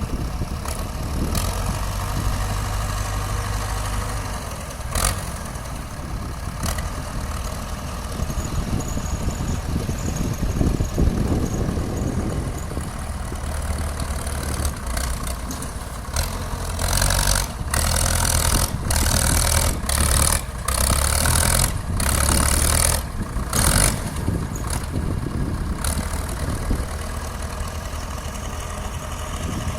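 Diesel engine of a modified Hanomag 75 tractor, a four-cylinder Chevrolet Cimarrón diesel cut down from a Bedford six, running steadily. A string of louder, rougher bursts comes about two-thirds of the way through.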